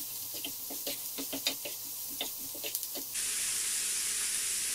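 Chopped onion, leek and garlic frying in oil in a wok, stirred with a wooden spatula: a faint sizzle with many short knocks and scrapes of the spatula against the pan. About three seconds in, a steady, louder sizzle takes over.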